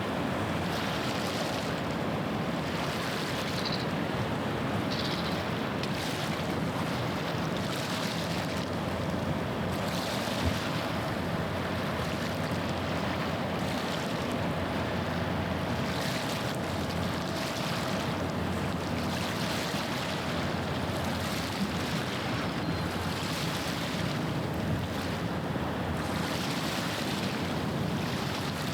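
Steady low drone of a passing ship's engine over waves washing against the shore, with wind on the microphone. A faint steady whine sits over it through the middle.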